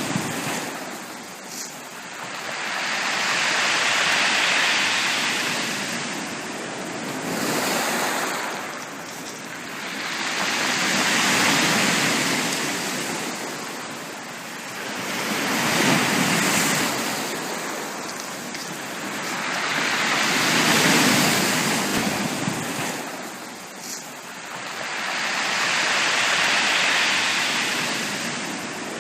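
Sea waves breaking on a beach, each wave surging up and washing back. They come in a slow, even rhythm, about one every five to six seconds.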